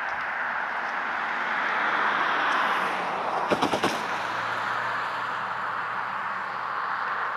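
Slow freight train rolling with a steady rumble of wheels on rail, broken a little past halfway by a quick run of four sharp clacks of wheels over a rail joint. A low steady hum comes in right after.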